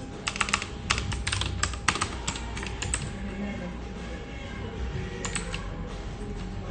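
Computer keyboard typing: a quick, dense run of keystrokes for about three seconds, then a pause and a few more keystrokes around five seconds in, over a steady faint hum.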